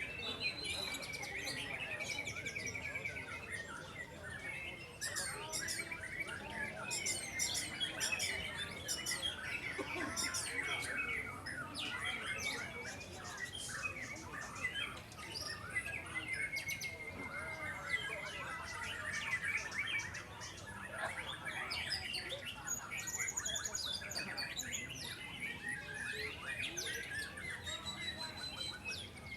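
Several white-rumped shamas singing at once in a dense, overlapping chorus of whistles, trills and rapid chattering notes.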